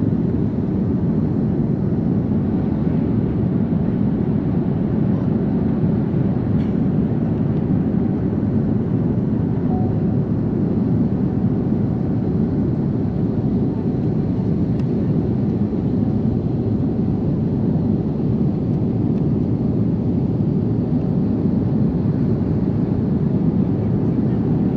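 Steady cabin noise of a jet airliner in flight: an even low rush of engine and airflow.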